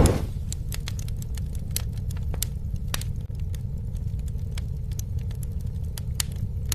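Campfire burning: a steady low roar with frequent sharp, irregular crackles and pops, and a short louder rushing burst right at the start.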